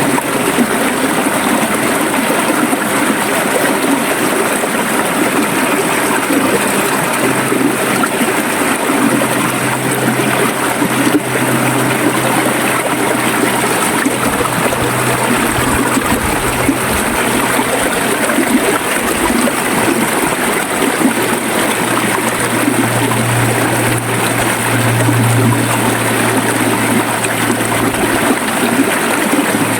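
River water flowing steadily over rocks, a dense rushing and gurgling. Underneath is a low steady hum that grows stronger about three-quarters of the way through.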